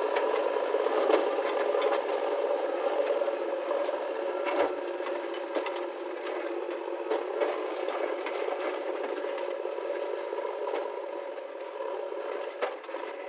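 Diesel engines of heavy earthmoving machinery running steadily, with scattered rattles and knocks of metal. The sound is thin with no bass and slowly grows quieter toward the end.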